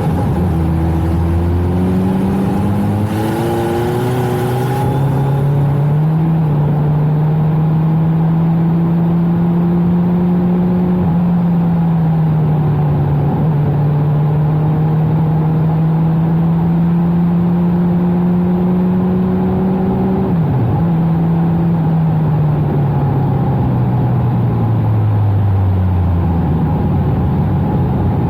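First-generation Suzuki Hayabusa's inline-four with a custom exhaust pulling away and shifting up through the gears in several quick rising steps, then holding a steady cruise. About two-thirds of the way through the revs drop and then fall away steadily as the bike slows.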